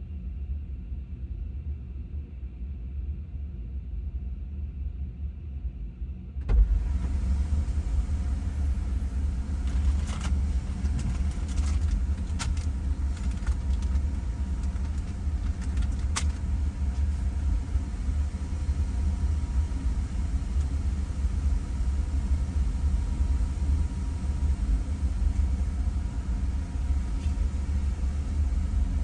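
Car on the move: a steady low rumble of engine and road. It gets louder and brighter about six and a half seconds in, with a few sharp clicks later on.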